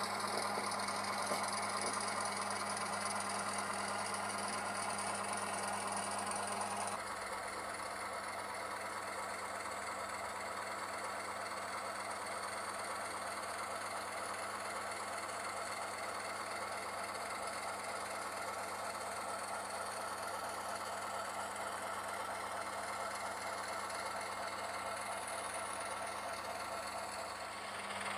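Diesel engine sound of an H0 Märklin Köf II shunter played through its ESU LokSound micro decoder and small speaker, running steadily like an idling diesel. About seven seconds in it drops a little in level and changes tone.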